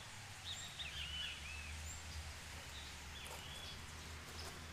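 Small birds chirping in short rising and falling calls, in a cluster about a second in and again near the end, over a steady low rumble.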